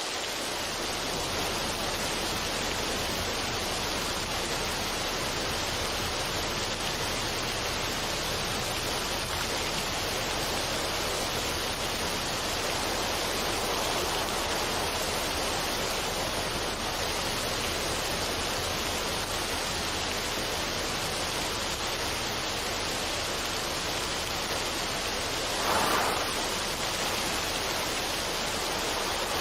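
Steady, even rushing noise with no tones or melody, swelling briefly about 26 seconds in.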